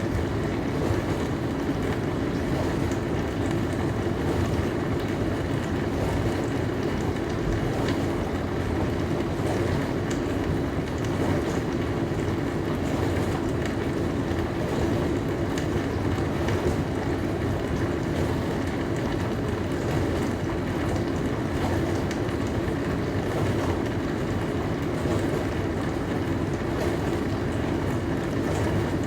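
Dishwasher running its wash cycle: an even, unchanging rush of water spraying inside the tub over a low hum.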